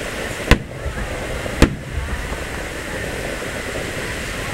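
Two sharp booms of aerial firework shells bursting, about a second apart, over a steady background of noise.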